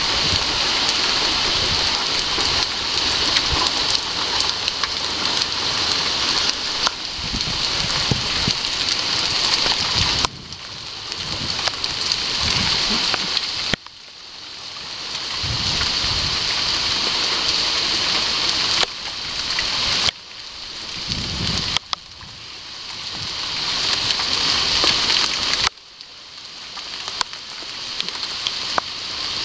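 Heavy rain pouring steadily: a dense hiss of many small drop impacts. Its level falls away suddenly a few times and swells back up over several seconds.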